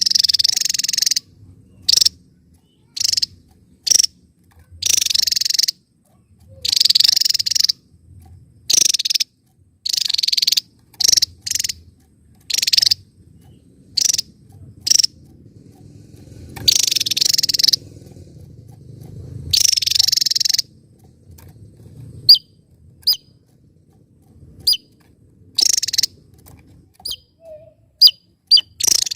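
Javan tesia singing: repeated harsh, buzzy high bursts, each from a fraction of a second to over a second long, with a run of short, thin, high chirps near the end.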